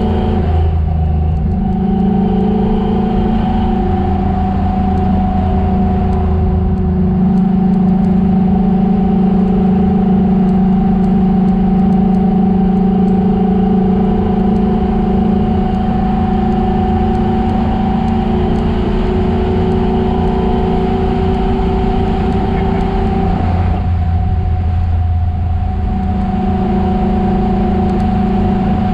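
Chevrolet Chevelle engine running at high revs under hard track driving. The pitch drops briefly about a second in and again around 24 seconds as the driver comes off the throttle, then it picks back up.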